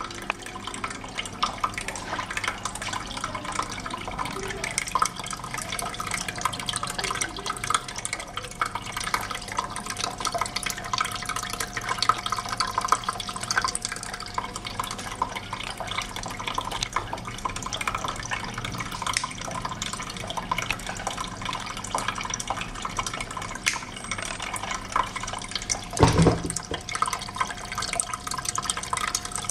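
Decorative tabletop water fountain shaped like a woven basket, its water trickling and splashing steadily with many small drips. A dull thump sounds once, about 26 seconds in.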